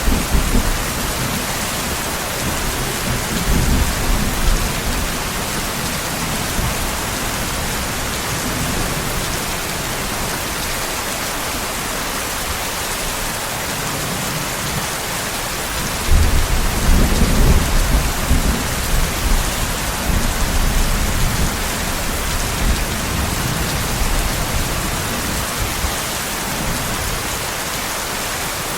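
Steady heavy rain hissing throughout, with rolls of thunder rumbling low underneath. A long thunder roll sets in suddenly about halfway through and rumbles for several seconds before dying away.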